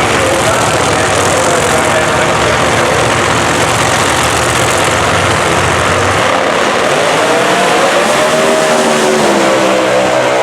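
Loud racing-engine noise at a drag strip, a dense steady din, with an engine's pitch sliding up and down in the second half.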